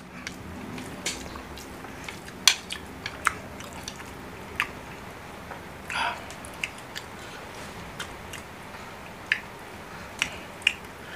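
Close-miked eating sounds of spicy noodles: chewing with irregular wet mouth clicks and smacks, about ten sharp ones scattered through, and perhaps the odd click of a utensil.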